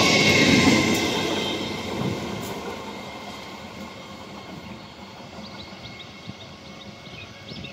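Electric multiple unit (EMU) local train running past on the nearby track, its wheels and coaches loud at first and fading steadily over the first two or three seconds as it draws away. After that only a quieter steady rumble remains while a second EMU approaches in the distance.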